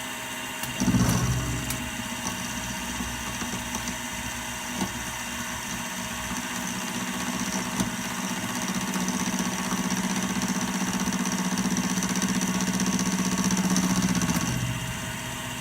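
A metalworking machine tool's motor running with a steady hum, briefly swelling about a second in, then growing louder from about six seconds in and easing back near the end.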